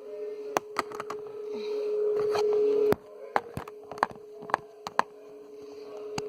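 Scattered clicks and taps of small toy pieces, such as dice, being picked up and set down, over a steady high-pitched hum. The hum swells for the first three seconds, then drops suddenly with a click and carries on more faintly.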